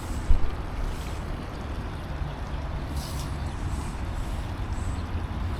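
Steady low outdoor rumble, with a single thump about a third of a second in.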